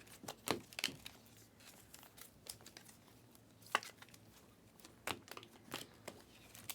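Panini Prizm basketball card packs and cards being handled: scattered crinkles and light clicks of wrapper and card stock, with a few sharper crackles.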